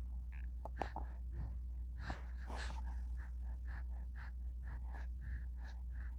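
A newborn baby's small breathy sounds: short soft gasps and breaths, about two a second, over a steady low hum.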